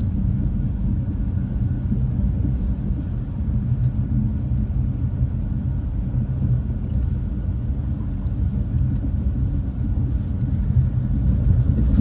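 Steady low rumble of a Renfe class 130 (Talgo 250) high-speed train running along the line, heard from inside the passenger coach, with a faint steady high tone above it.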